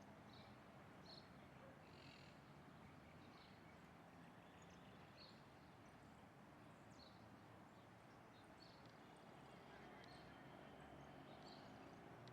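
Faint, short, high bird chirps repeating at irregular intervals of roughly a second, over low steady background hiss.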